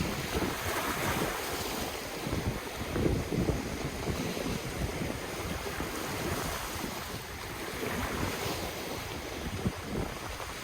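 Ocean waves washing onto the shore in a steady surf, swelling slightly about a second in and again near the end, with wind buffeting the microphone.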